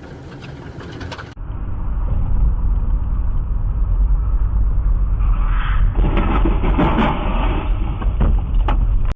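Car on the road: a heavy, steady low rumble of engine and tyres. It comes in with a sudden change just over a second in, and turns louder and rougher for a couple of seconds about six to seven seconds in.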